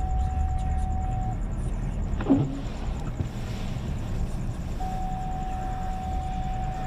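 Car cabin rumble as the vehicle backs up slowly on a snowy road. A thin steady tone sounds at the start, stops about a second in and comes back near the end, and a short sharp sound falls in pitch a little over two seconds in.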